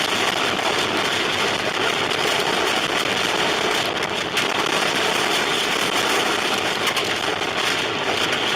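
Steady, loud rushing noise of a car driving through a tornado's storm, with wind and rain buffeting the vehicle.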